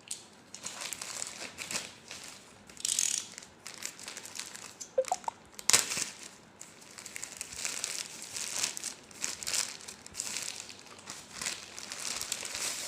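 Packaging of a boxed walkie-talkie being opened and handled: irregular rustling and crinkling, with scattered clicks and one sharp snap about six seconds in.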